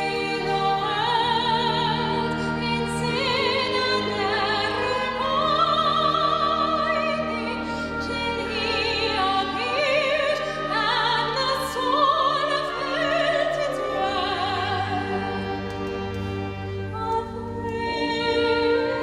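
Classical-style solo singing with a strong vibrato, held over a sustained accompaniment in a church concert setting.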